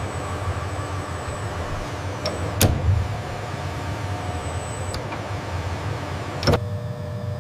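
Factory machine ambience: a steady low hum with a faint high whine, broken by a few sharp clicks. The two loudest clicks come about a third of the way in and near the end.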